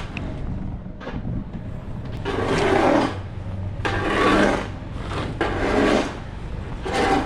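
A snow shovel scraping snow off the pavement in repeated strokes, about five scrapes, one every second or so.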